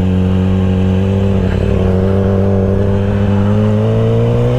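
Yamaha R6's inline-four engine running steadily at low revs, its pitch starting to rise about three and a half seconds in as the bike accelerates.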